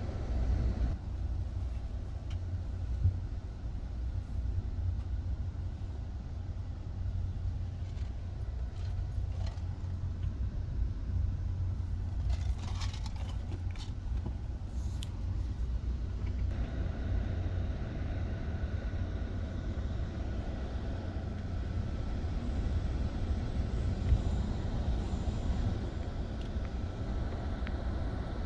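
Steady low rumble of a moving passenger train heard from on board, with a few brief clicks and rattles about halfway through.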